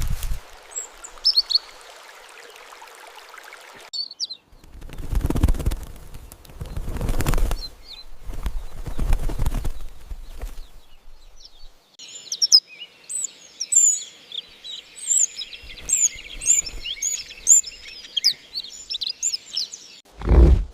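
Small birds chirping and twittering in a busy flurry of quick high calls through the second half. Before that, a soft hiss with a few chirps, then three long, deep rushes of noise.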